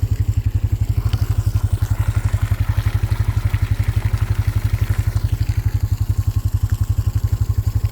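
An engine idling steadily, an even low throb of about a dozen beats a second. It is most likely the plow vehicle left running.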